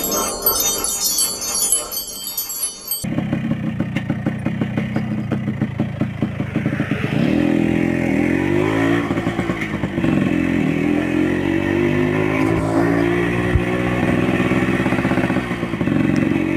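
A short tinkling chime sound, cut off about three seconds in. Then a Yamaha RX Special's 115 cc two-stroke single-cylinder engine is heard under way through an original RX King exhaust, its pitch rising several times as it accelerates up through the gears.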